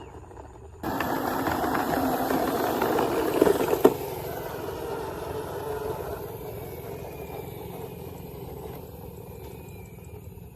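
A motor running, cutting in suddenly about a second in and loudest for the first three seconds. A sharp click comes just before four seconds, after which it runs on more quietly.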